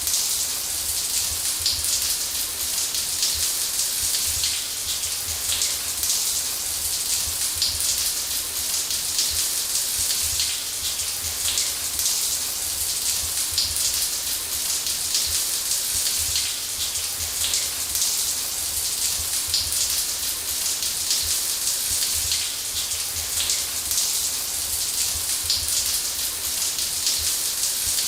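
Shower running steadily: a dense, even hiss of water spray spattering, strongest in the high end, with a faint low rumble beneath.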